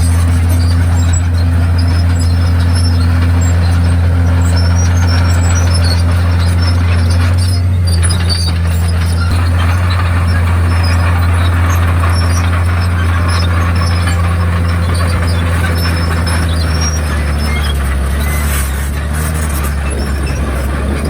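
Komatsu D51PX bulldozer's diesel engine running steadily with a deep constant drone, with scattered high squeaks over it; the engine sound eases slightly near the end.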